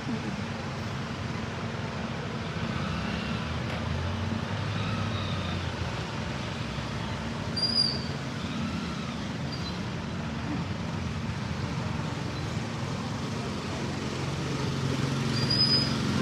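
Street traffic: vehicle engines running with a steady low hum, faint voices in the background, and two short high squeaks, one about halfway through and one near the end.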